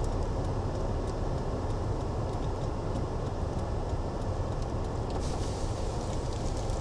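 A car driving on a snowy road, heard from inside the cabin: a steady low rumble of engine and tyres with road hiss. The hiss grows slightly brighter about five seconds in.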